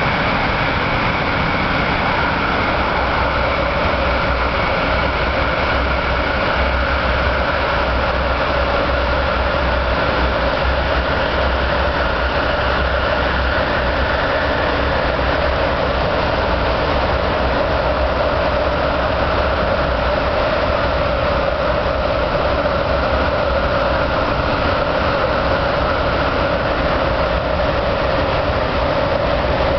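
Inside an MTR MLR (refurbished Metro-Cammell) electric multiple-unit train running steadily: a loud, continuous rush of running noise with a few held tones that drift slightly in pitch.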